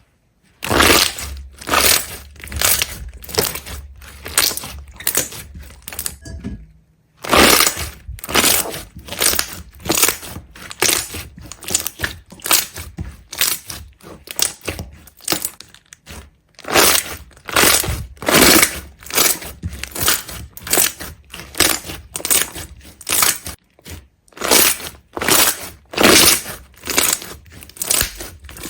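Repeated crisp crunching strokes, about two a second, with two short breaks.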